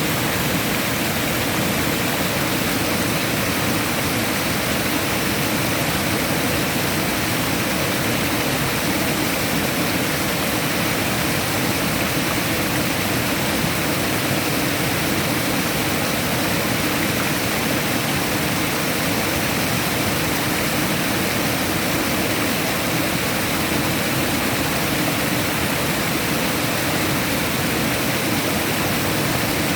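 Steady rushing water, an even unbroken roar of a waterfall or fast stream.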